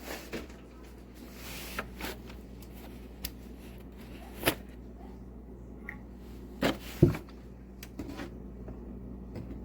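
Scattered knocks and clunks of kitchen things being handled and set down, the loudest about four and a half seconds in and twice around seven seconds in, over a steady low hum.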